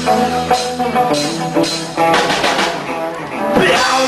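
Rock band playing an instrumental bar between vocal lines: electric guitar, bass and drum kit, with the drums building up in the second half.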